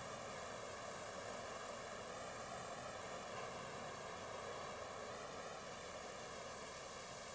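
Steady faint hiss with a few faint wavering tones running through it, and no distinct event.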